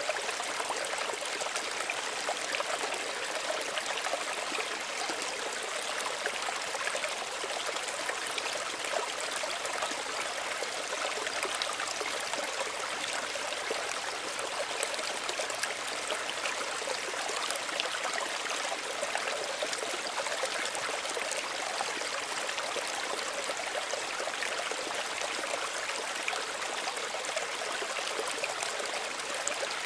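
Small stream running over stones: a steady babbling and trickling of water, mostly high and bright with little low rumble.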